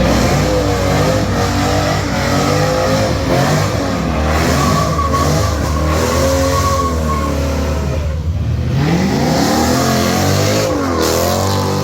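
A car engine revving hard, its pitch climbing and dropping again and again, easing off briefly about two-thirds of the way through before rising again.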